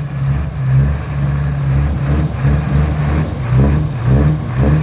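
Six-wheel truck's engine revving unevenly under load, rising and falling, as it tries to reverse on slippery wet ground.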